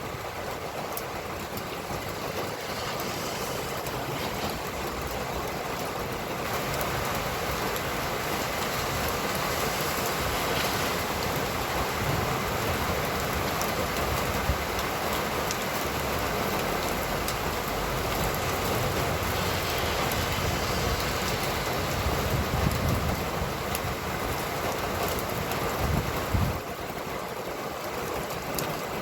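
Rain falling on a busy wet street, with the hiss of tyres and the rumble of passing traffic. The traffic swells from about six seconds in, grows heavier in the low end toward the end, and drops away suddenly near the end.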